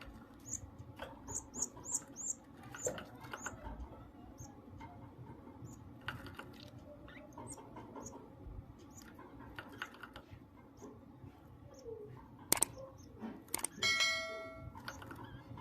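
High-pitched cheeping of a goldfinch × canary hybrid chick begging to be fed by its mother canary. A quick run of cheeps comes in the first few seconds, then single cheeps scattered through. Near the end there are two sharp clicks and a short buzzy note about a second long.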